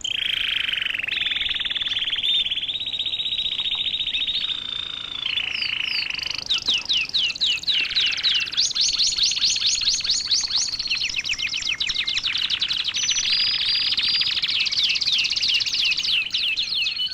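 Canary singing: one continuous song of rapid trills, each run of fast repeated notes switching to a different note every second or two.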